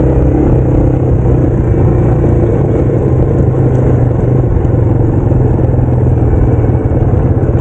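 Yamaha TW200's single-cylinder four-stroke engine running at a steady pace while the bike is ridden, with no rise or fall in revs.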